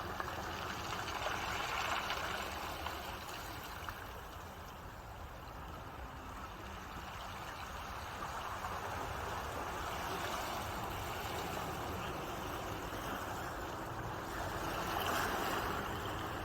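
Ocean waves washing on a shore, the surf rising and falling in slow swells, with a louder wash near the end.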